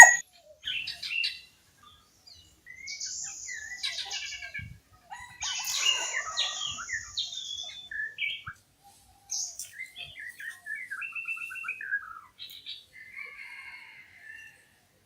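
Mixed wild birdsong: several birds giving short chirps, whistled gliding notes and trills, one after another with short pauses between.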